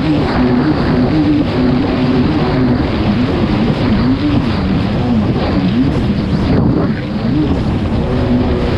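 Kawasaki STX 160 jet ski engine running hard at race speed, its pitch swinging up and down again and again, over a steady rush of wind and water.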